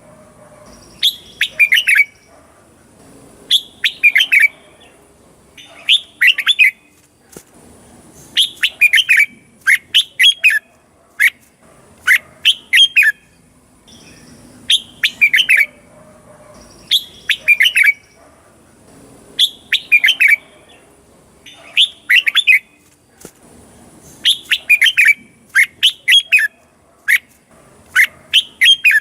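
Red-whiskered bulbul singing: short, bright phrases of quick warbled notes, repeated every two seconds or so.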